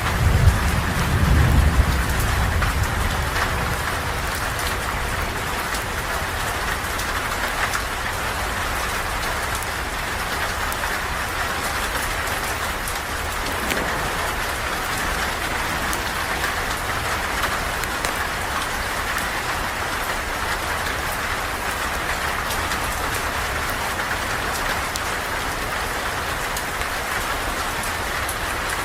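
Steady rain falling. A low rumble swells and fades in the first three seconds.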